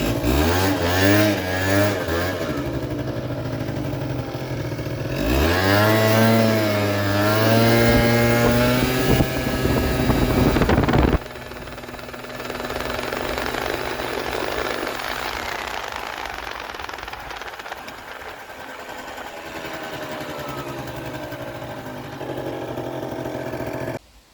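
Kymco Super Fever ZX 50cc two-stroke scooter engine revving up twice, the pitch held high for several seconds, then the throttle shut about eleven seconds in and the engine running quieter. The owner believes it is running a bit lean on its 82 main jet.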